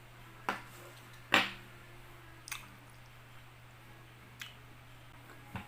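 Someone biting and chewing pineapple close to the microphone: five short, separate bite and chew sounds, the loudest about a second and a half in, over a faint steady low hum.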